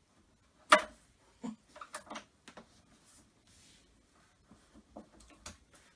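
Irregular clicks and knocks of hardware and wooden panels being handled during flat-pack cupboard assembly, with one sharp loud knock about a second in followed by smaller taps and clicks, as screws are checked for tightness.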